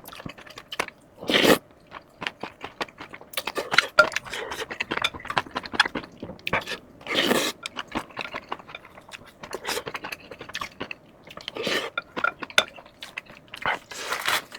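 Close-up eating sounds: crunching bites and chewing, with clicks of utensils against dishes and a few louder, longer bursts spread through.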